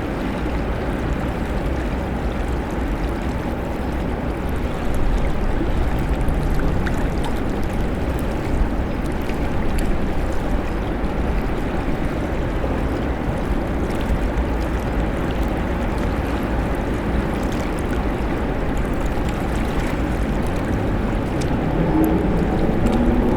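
Steady low rushing outdoor ambience of a city park, with a few faint brief tones near the end.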